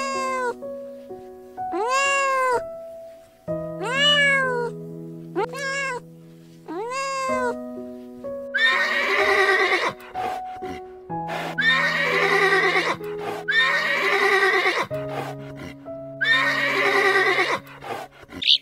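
Animal calls over soft piano music: about five short calls that rise and fall in pitch, then four longer, harsher calls of about a second each.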